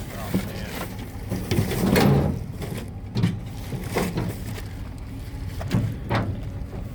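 Scattered knocks and clunks from a refrigerator being handled and its doors worked, with a louder, longer clatter about two seconds in and single knocks every second or so after. A low steady hum runs underneath.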